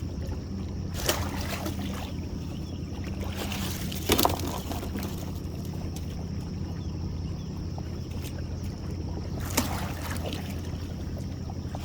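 A boat's motor runs steadily with a low, even hum while a trotline is worked for crabs. Three short, sharp sounds break in, about one, four and nine and a half seconds in, the one about four seconds in loudest.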